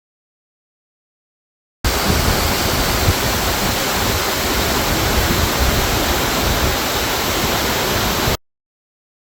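Waterfall rushing: a loud, steady roar of falling water that cuts in suddenly about two seconds in and cuts off just as suddenly near the end.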